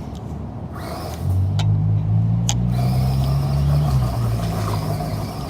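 Toy truck's motor running with a low, steady hum that grows louder about a second in and eases off near the end. A single sharp click comes midway.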